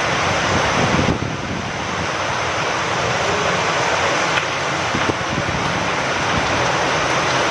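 Steady rain with gusting wind: a continuous hiss over an uneven low rumble. The level dips briefly about a second in.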